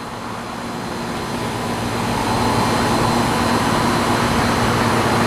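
Older Bryant heat pump's outdoor unit coming out of its defrost cycle: a rushing noise that builds over about two seconds and then holds steady, with a low hum under it.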